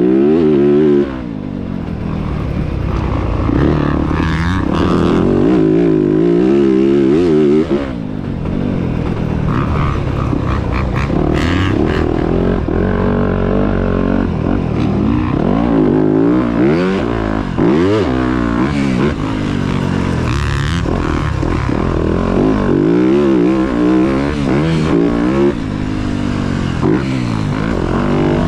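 Motocross dirt bike engines revving up and down as they ride the track, the pitch rising and falling repeatedly with shifts and throttle changes.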